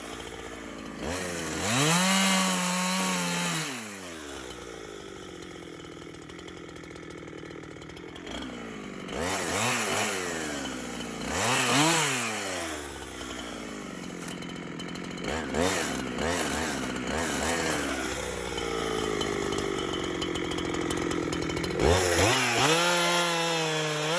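Chainsaw running, speeding up and slowing back down several times, with steadier lower-speed running in between.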